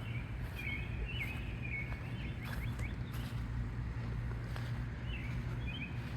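Birds chirping in short, repeated squiggly calls over a steady low rumble.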